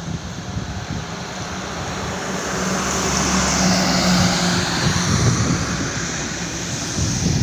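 A vehicle passing on a highway, its rushing noise and low hum swelling to a peak about three to four seconds in and then easing, over wind on the microphone.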